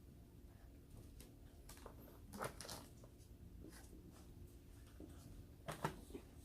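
Quiet room with a few faint clicks and taps from seafood being handled and eaten, the loudest about two and a half seconds in and again near the end.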